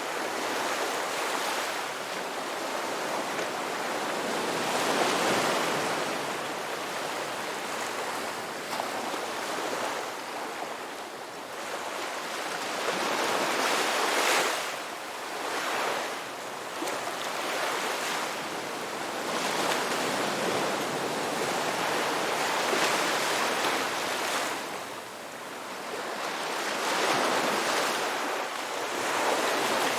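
Ocean surf washing onto a beach: a continuous rush of breaking waves that swells and eases every few seconds, with a louder surge about halfway through and another near the end.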